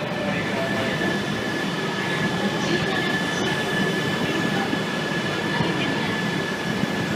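Steady Shinkansen train noise at a station platform: an even rumble with a thin, held high whine over it.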